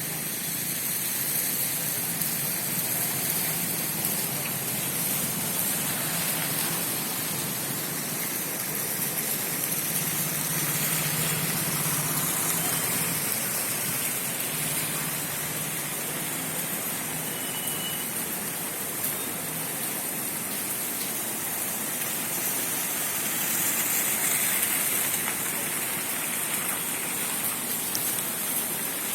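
Steady rain falling without a break, an even hiss of rain on surfaces. A faint low hum comes and goes underneath.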